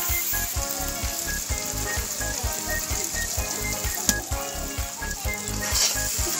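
Curry masala sizzling as it fries in a black iron kadai while being stirred, under background music with a steady fast beat. One sharp click about four seconds in.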